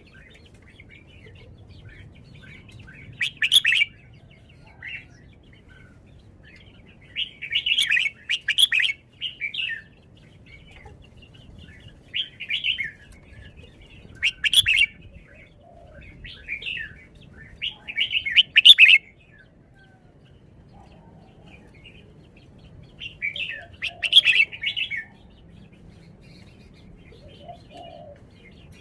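Red-whiskered bulbul singing short, bright, chirping phrases in bursts, with pauses of a few seconds between them.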